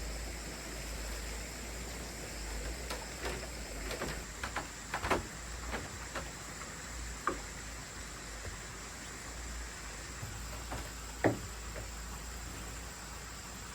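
A dozen or so irregular knocks and clicks, handling or impact sounds, over a steady hiss. The loudest come about five seconds in and again near the end.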